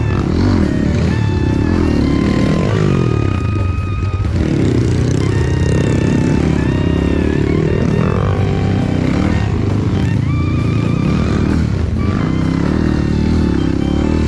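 Dirt bike engine revving up and down while riding off-road, with background music over it.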